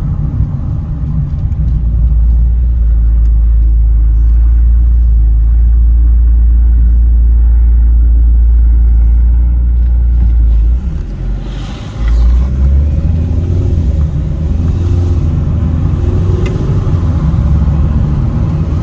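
Vauxhall Meriva B automatic being driven on the road, heard from inside the cabin as a steady low rumble of engine and road noise. About eleven seconds in the rumble briefly drops away, then the engine note comes back, rising and falling.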